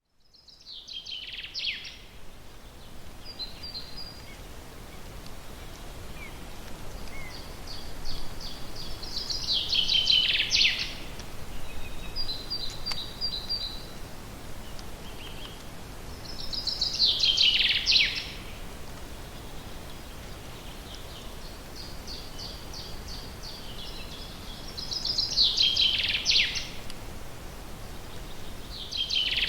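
A songbird repeats one short song about every eight seconds. Each song is a fast run of notes that grows louder and falls in pitch at the end, with brief high chirps between songs, over a steady faint hiss of forest background.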